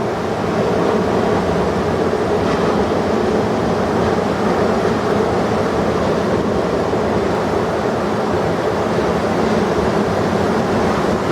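Heavy ocean surf from a large hurricane swell, a steady, even rush of breaking waves.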